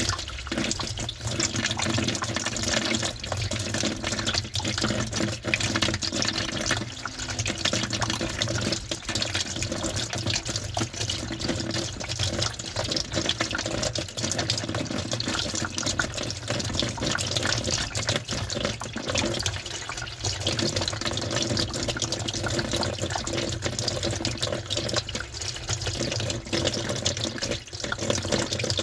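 Water rushing and sloshing inside a washing machine drum, heard from within the drum, with many small clicks over a steady low hum.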